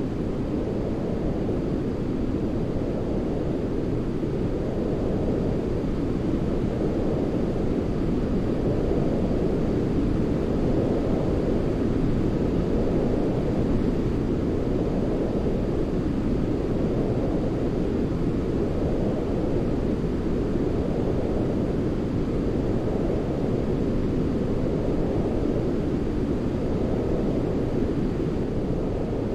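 Continuous low, rumbling sleep noise played to soothe a baby, its weight in the bass like brown noise, with a gentle swell and ebb every few seconds.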